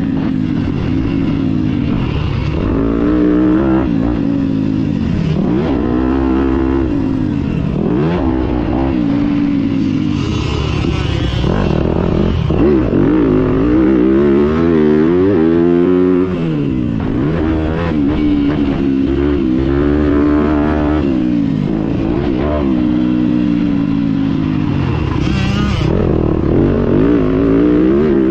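Small two-stroke motocross bike engine revving hard and easing off over and over, its pitch climbing and dropping again every few seconds as the bike accelerates and slows around the track.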